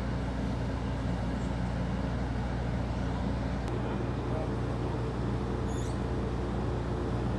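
A large engine running steadily at constant speed: an even low hum that does not rise or fall.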